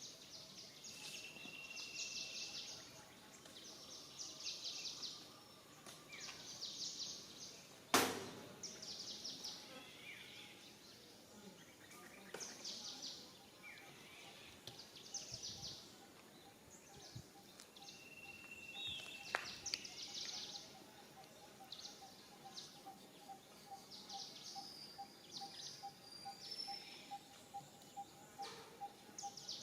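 Birds chirping in short high bursts repeated every second or two, with one sharp click about eight seconds in and a faint pulsing buzz joining about two-thirds of the way through.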